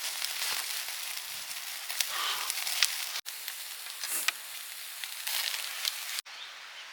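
Food frying and sizzling, a steady hiss with scattered crackling pops. The sound drops out suddenly for an instant twice.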